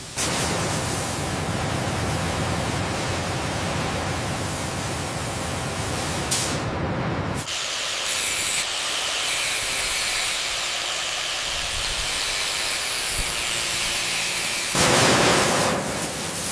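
Loud, steady hissing rush of noise. It changes character abruptly about 7 and 15 seconds in: the low rumble drops away about 7 seconds in, and the sound grows louder again about 15 seconds in.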